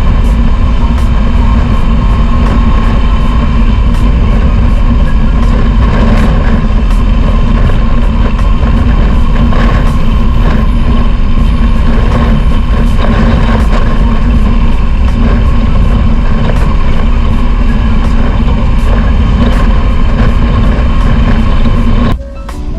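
Riding noise of a Royal Enfield Himalayan 411 single-cylinder motorcycle at road speed: a loud, steady rumble of wind on the phone microphone mixed with engine and road noise. It drops away sharply near the end.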